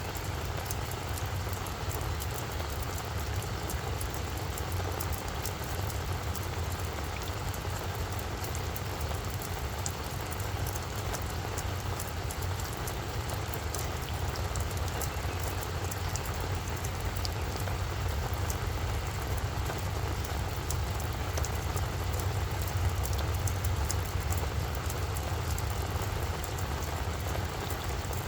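Steady rain falling on a flower bed, with many small, sharp drop ticks over an even hiss. A steady low rumble runs underneath.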